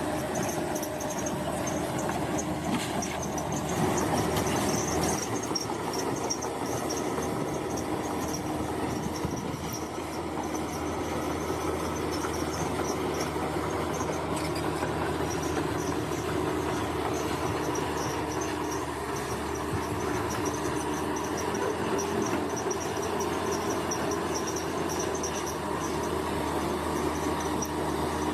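Bulldozer's diesel engine running steadily under load, with grinding metallic track noise. Insects chirp throughout in a high, pulsing trill.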